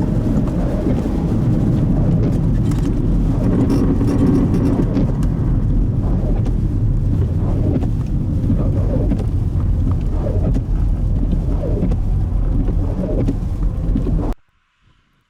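Loud, steady low rumble of highway traffic and strong blizzard wind, which cuts off abruptly near the end.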